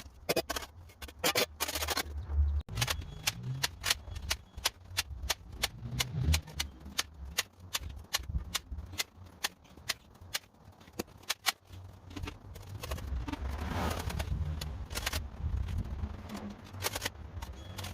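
Irregular series of sharp clicks or snaps, several a second, over a low rumble.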